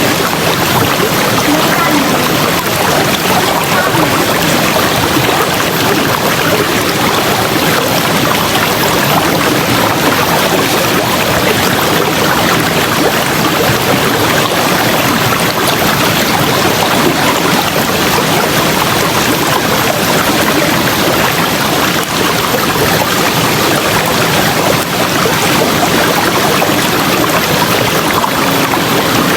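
River water rushing over rocks, a loud steady rush.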